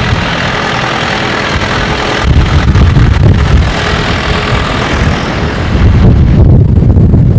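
Tractor diesel engines running as tractors pass, a loud steady rumble that swells twice, a couple of seconds in and again near the end, with wind buffeting the microphone.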